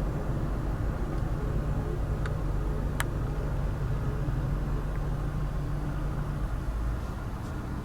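Steady low hum of the 2015 Mazda CX-5, with a sharp click about three seconds in; part of the hum drops away near the end.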